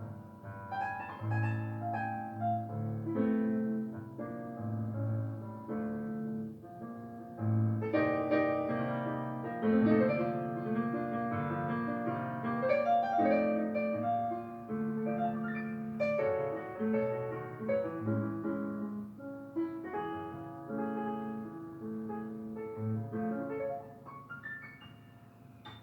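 Background piano music: a melody over held low bass notes, growing quieter near the end.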